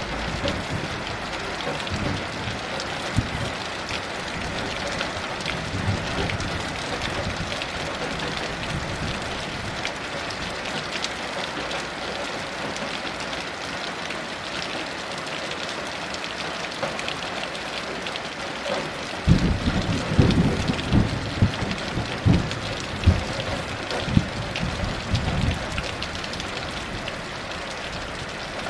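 Heavy rain falling in a steady hiss. About two-thirds of the way in, thunder rumbles for several seconds in uneven low rolls.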